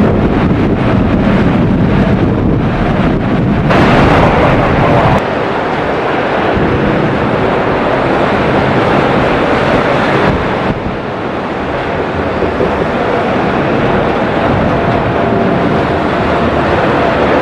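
Strong wind buffeting the microphone over heavy rain: a loud, steady rushing noise. A faint steady whine comes in during the second half.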